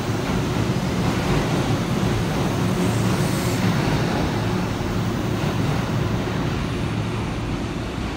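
Kintetsu limited express train running along the platform, a steady rumble of wheels and motors that eases off slightly near the end.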